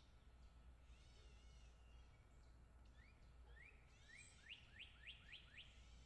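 Faint songbird calls: a harsh call near the start, then a run of quick upward-sweeping chirps that come faster and reach higher in the second half.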